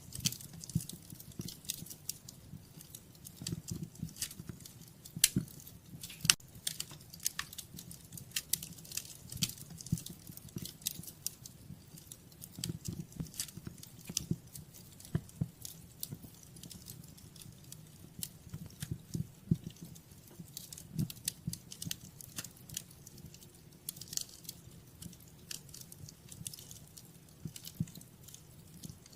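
Wood fire in a fireplace crackling and popping: irregular sharp snaps of varying loudness over a soft low rumble of the burning logs.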